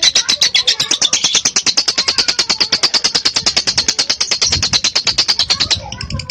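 Lovebird giving its long ngekek chatter: a fast, even string of sharp high notes, about ten a second, that breaks off near the end.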